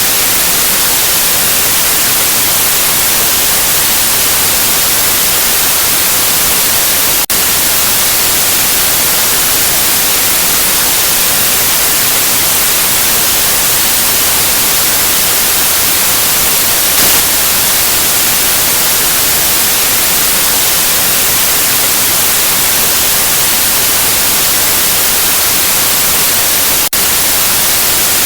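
Steady white noise: an even, loud hiss, brightest in the highs. It drops out for a split second twice, about a quarter of the way in and again near the end.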